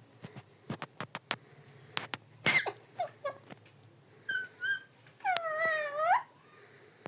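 Pet parrot calling: a few sharp clicks, then a loud harsh squawk, some short chirps and two brief whistled notes, and finally a longer whistled call of about a second that rises at its end.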